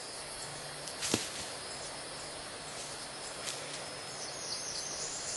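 Steady outdoor ambience of insects and a few bird chirps, with one sharp click about a second in.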